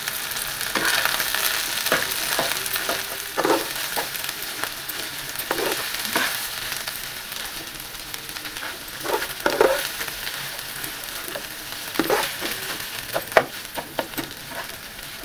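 Mashed potato, chopped onion and minced meat frying in oil in a frying pan: a steady sizzle, with a metal spatula scraping and knocking against the pan at irregular moments as the mixture is stirred and broken up.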